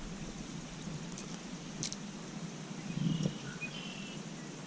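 Quiet open-air ambience over water with a few faint, short bird chirps about three seconds in.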